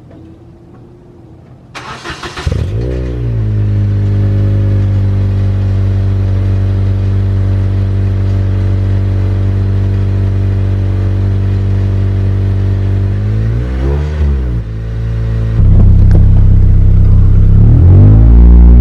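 2005 Acura RSX's four-cylinder engine cranked by the starter and catching about two seconds in, then idling steadily. It is revved up and back down once, then runs louder with another rise in revs near the end.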